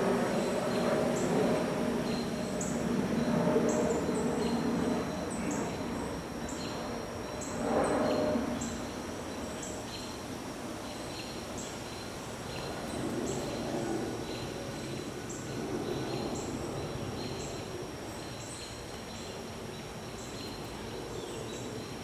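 Jet airliner passing overhead, its rumble loudest for the first few seconds and then fading, with a brief louder swell about eight seconds in. Under it, a steady high insect trill and short high chirps repeating about once a second.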